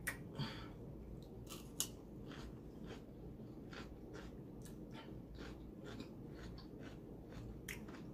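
Close-up mouth sounds of someone eating seafood boil: chewing, with irregular sharp clicks, the loudest in the first two seconds.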